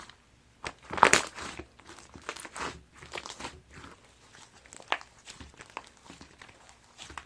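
Hands squishing and pressing a crunchy sherbet-textured slime, giving irregular crackling and crunching pops, loudest about a second in.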